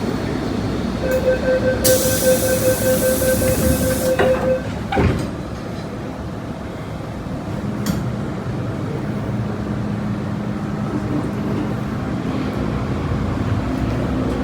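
Inside an MTR Metro-Cammell M-Train car: the door-closing warning beeps sound for a few seconds over a hiss of air, and the doors shut with a thump about five seconds in. The train then pulls away with a rising rumble and motor hum.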